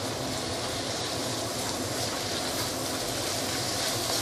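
Shredded cabbage and carrot sizzling in a hot non-stick wok as they are stirred with chopsticks: a steady frying hiss that grows a little louder near the end.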